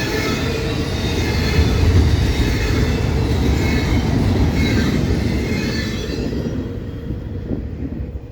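Freight train cars rolling past at close range, with a steady rumble and faint squealing from the wheels. The sound fades away near the end as the last of the train goes by.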